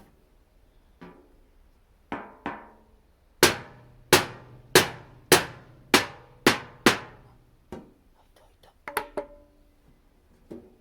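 Hammer blows on a flathead screwdriver driven into a thin metal rice-cracker tin to punch holes, about a dozen sharp metallic strikes, each with a brief ring, coming irregularly and loudest in the middle.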